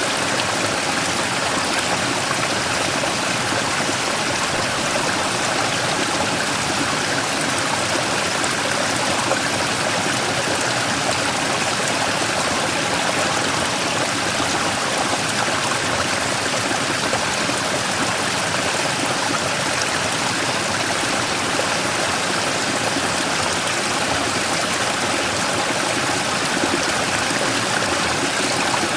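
Mountain stream rushing steadily over and around a large rock, a constant splashing wash of water.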